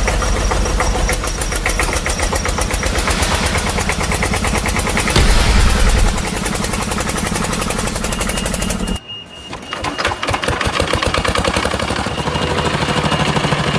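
Engine sound of a toy RC tractor or crane, running with a fast, even pulse. It cuts out suddenly about nine seconds in, then starts up again and runs on.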